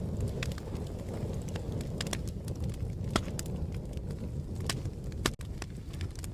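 Fire crackling: irregular sharp pops and snaps over a low, steady rumble of burning, with a louder pop about three seconds in and another just after five seconds.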